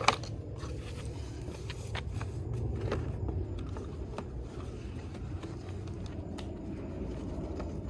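A few faint knocks and clicks of wooden boards with metal rails being handled and set into a box, over a steady low rumble.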